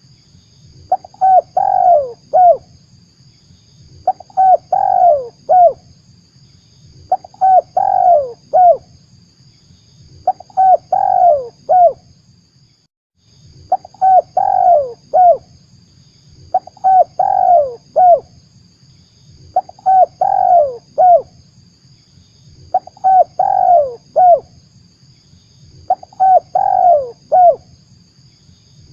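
Spotted dove (tekukur) cooing, the same short phrase of quick, falling coos repeated about every three seconds, nine times, with a short break midway. It is a looped lure call for drawing in wild spotted doves.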